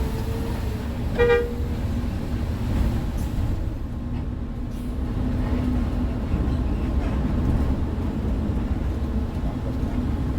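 Hino R260 coach under way, heard from inside the cabin: a steady low engine and road rumble, with one short horn toot about a second in.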